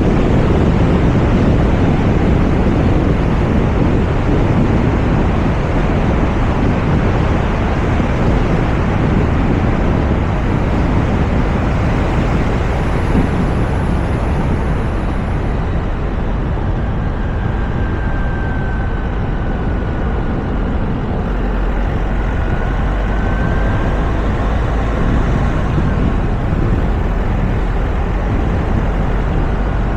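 Steady rush of wind and tyre noise on the microphone of a roof-mounted camera on a moving car, with a faint high whistle coming and going in the middle.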